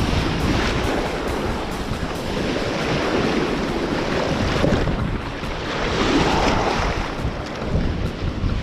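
Ocean surf washing in on the beach, swelling a couple of times, with wind buffeting the microphone.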